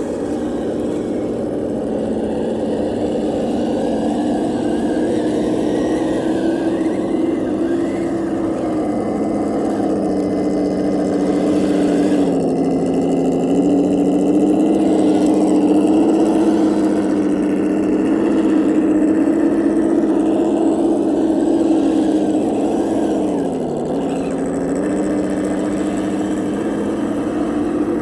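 Kyosho Blizzard RC tracked snow vehicle running, its electric motor and drive giving a steady whine that dips in pitch a couple of times as it drives.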